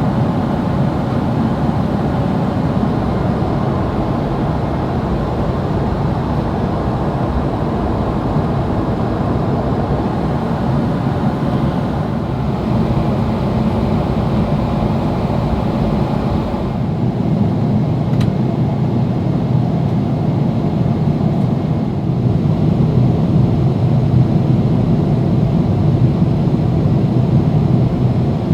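Steady in-flight cabin noise of a Boeing 777-300ER: a constant rush of airflow and engine rumble. A little past halfway the higher hiss drops back and the low rumble grows stronger.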